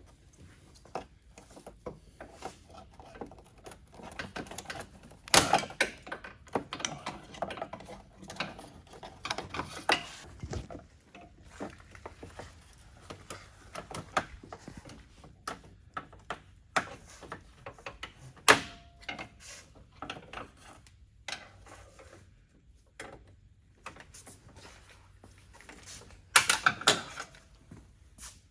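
Hand tools working on fasteners and metal parts under a car: irregular clicking, clinking and tapping, with louder knocks about five seconds in, just before the twenty-second mark with a short metallic ring, and again near the end.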